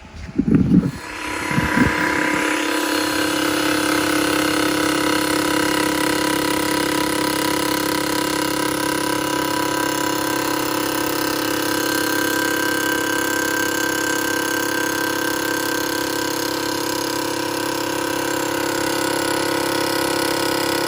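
Small mill cutting the aluminium ribs of a ZL1 LSA supercharger lid. A few loud bursts come in the first two seconds, then a steady machining whine with several held tones runs on.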